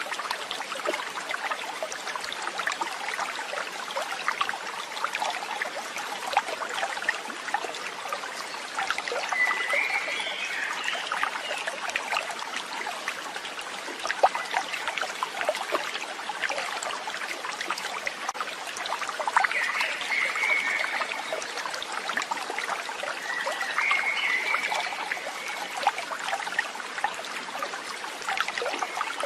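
Running water, a stream trickling and babbling steadily, with three short high chirps about ten, twenty and twenty-four seconds in.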